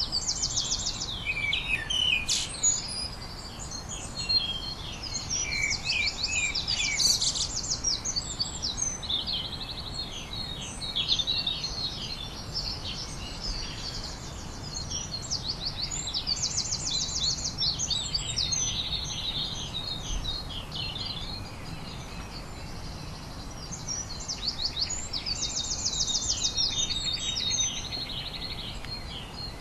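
Songbirds singing in overlapping phrases, several of them fast high trills repeated every few seconds, over a low steady background noise.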